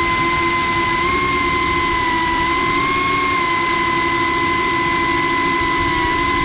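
Cinewhoop FPV drone's brushless motors and ducted propellers whining steadily, recorded close by the onboard GoPro Hero 8's microphone, the pitch lifting slightly about a second in and again around three seconds in.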